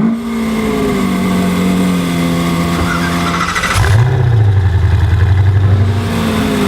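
Car engines: one revs up sharply and settles into a steady drone, then a second, deeper engine note comes in about four seconds in and holds.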